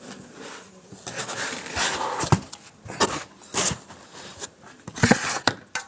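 Packing material rustling and scraping as a 3D printer's frame is worked free of its packaging, with a few sharp knocks.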